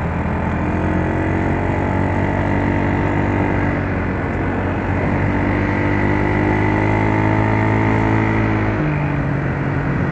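Yamaha Mio Soul scooter's single-cylinder four-stroke engine running under way with a steady note that drifts slowly, then changes pitch about nine seconds in.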